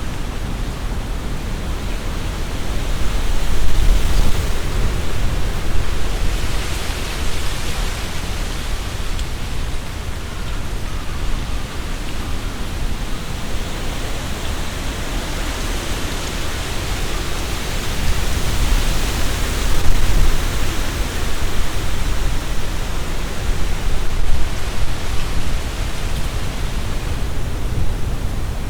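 Strong, gusting wind through trees: leaves rustling and hissing, with a low rumble of wind buffeting the binaural microphone. The gusts swell about four seconds in and again around the middle of the clip.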